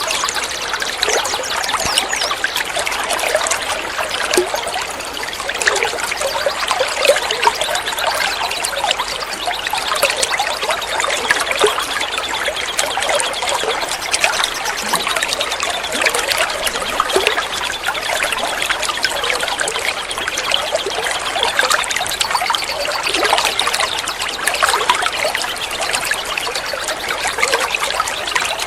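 Flowing water trickling and gurgling steadily, like a small stream.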